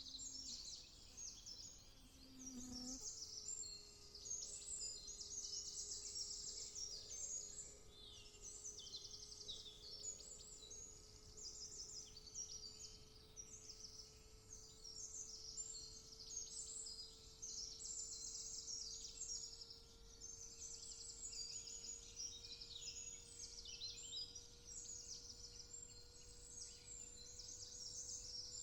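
Woodland bird chorus: many small birds singing and chirping at once in quick, overlapping high trills and twitters, with a faint steady hum-like tone underneath.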